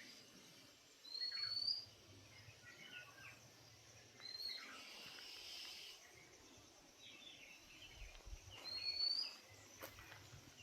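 Several birds calling over a faint steady hiss of outdoor ambience. One bird repeats a short, high rising whistle every three to four seconds, and other brief chirps are scattered between.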